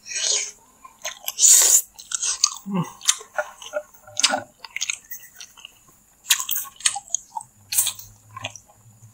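Close-miked chewing and biting of Madura chicken satay, the meat pulled off a bamboo skewer with the teeth. Irregular wet mouth sounds and clicks, loudest about one and a half seconds in.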